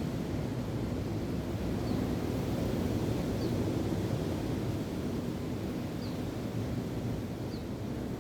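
Steady wind and surf noise, heavy at the low end with wind buffeting the microphone. A bird gives a faint, short, high call four times, every second or two.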